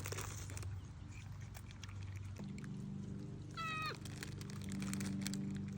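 A capuchin monkey gives one short, high-pitched call a little over halfway through, over a steady low hum.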